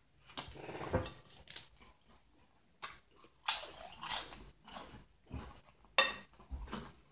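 Crunching and chewing of nachos made with Doritos chips, close to the microphone, with a cluster of loud crunches around the middle and a sharp crunch near the end.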